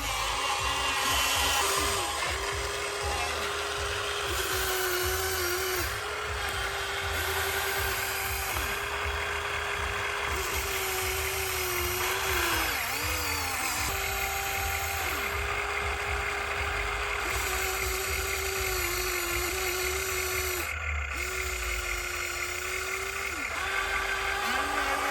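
Remote-control excavator's electric motors whining steadily, the pitch dipping briefly several times as the motors take load while the arm and bucket work.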